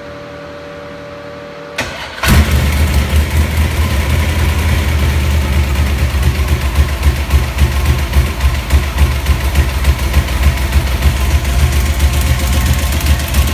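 1971 Chrysler 440 HP big-block V8 cold-starting: after a faint steady hum, the starter cranks briefly about two seconds in and the engine fires. It then runs loud at idle, with a deep, uneven pulsing.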